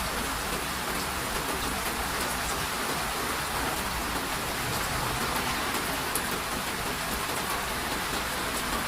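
Steady rain falling: an even hiss with many small drop patters.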